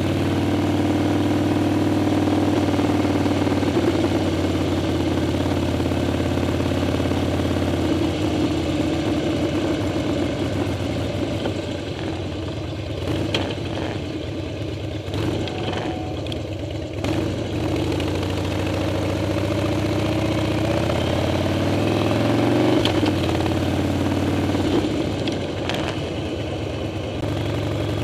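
Harley-Davidson Dyna's air-cooled V-twin engine running while riding. From about 12 seconds in the note drops lower and quieter for several seconds, with a few sharp knocks, then rises again as the bike accelerates away.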